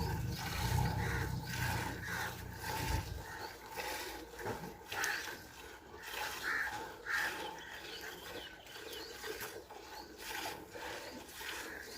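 Water buffalo being milked by hand: milk squirting into a pail in short strokes, about two a second. A low rumble stops about three seconds in.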